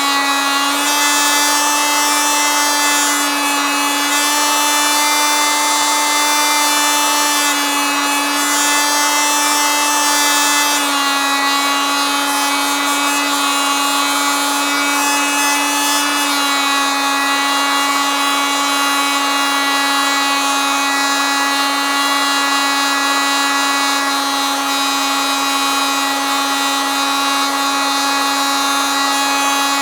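Oscillating multitool running continuously, a steady high-pitched buzz whose pitch shifts slightly a few times.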